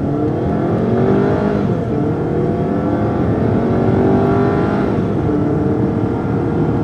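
2.0-litre turbocharged four-cylinder crossover engine accelerating hard under full throttle, its pitch climbing, dropping at an upshift about a second and a half in, climbing again and dropping at a second upshift near the five-second mark.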